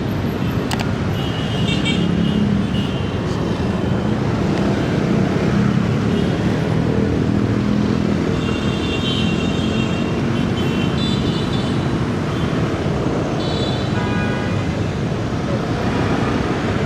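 City traffic heard from a moving motorcycle: a steady engine hum with road and wind noise from the surrounding cars and motorbikes. Short high-pitched tones sound several times over it.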